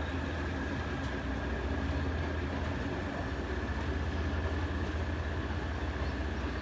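Diesel-hauled passenger train running across a steel trestle viaduct: a steady low rumble from the locomotive and rolling carriages, with a thin steady high whine above it.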